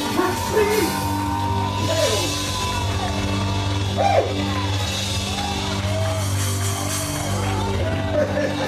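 Church praise music: a band with drums and long held keyboard chords, with voices singing and yelling over it.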